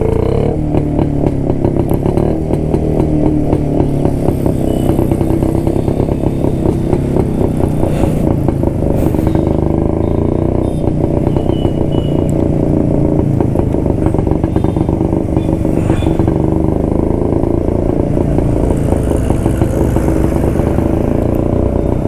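1972 Jawa motorcycle's two-stroke single-cylinder engine running steadily under way, heard close from the bike.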